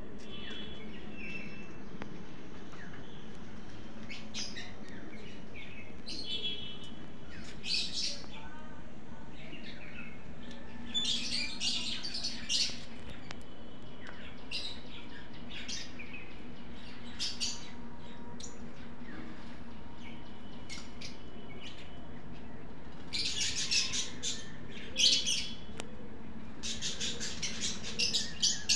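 Small birds chirping and tweeting: short high calls scattered throughout, busier in quick runs near the end, over a faint steady low hum.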